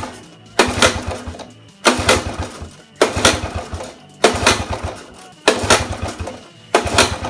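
Honda ATC 70's small engine being pull-started by its recoil starter over and over, about one pull every second and a quarter. Each pull is a short burst of the engine turning over, as a first start is tried once spark has been restored with a new spark plug.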